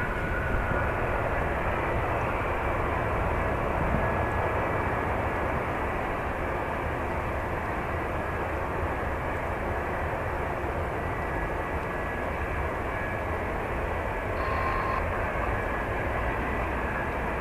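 Steady jet airliner engine noise with a faint high whine, mixed with wind buffeting the microphone.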